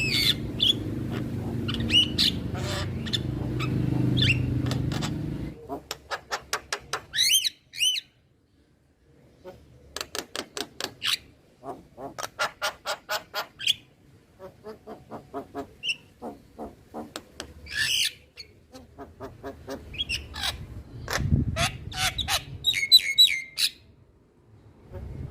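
Male Javan myna singing: bursts of rapid clicking, rattling notes mixed with rising whistles and harsh squawks, separated by short pauses. A low background rumble under the first five seconds cuts off suddenly.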